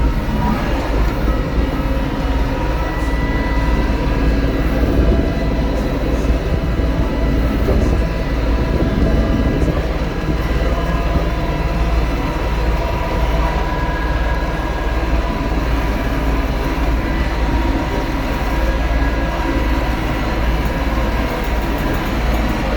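Tractor running steadily under load, with a deep rumble and a faint steady whine over it.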